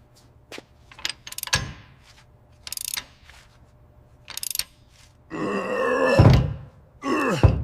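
Metal parts being handled: a few sharp clinks and knocks, then two longer scraping sounds with a squeal of metal sliding on metal, the louder one lasting about a second.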